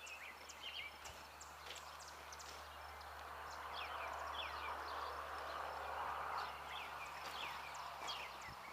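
Birds chirping in many short, quick calls over a broad rushing noise that grows louder about halfway through.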